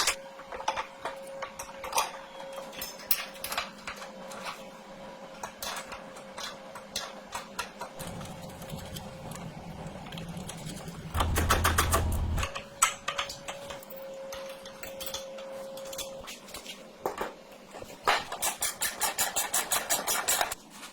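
Metal parts and hand tools clicking and clinking, with a louder stretch a little past halfway and a run of rapid, evenly spaced clicks near the end. A faint steady whine sits behind much of it.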